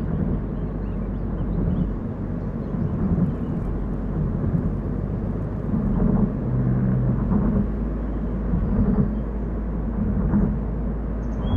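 A car being driven, heard as a steady low rumble of tyres and engine that wavers slightly without any sharp events.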